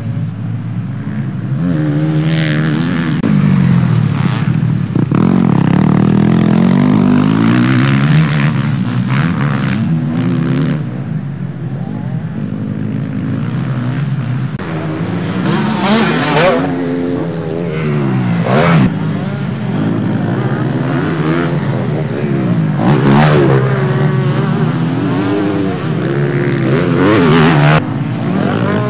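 Several motocross bikes racing around the track, their engines rising and falling in pitch as the riders open and close the throttle, with overlapping engine notes. Bikes pass close by in short loud sweeps about four times.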